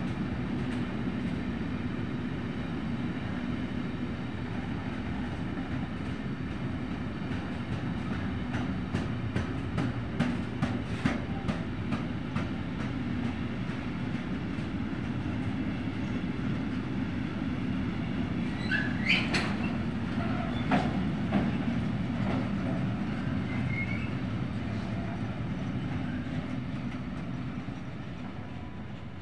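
Intermodal freight train of wagons carrying swap bodies and trailers rolling past, a steady rumble with a run of wheel clicks over rail joints about a third of the way in. Brief wheel squeals come about two-thirds through, and the sound fades as the last wagons pass.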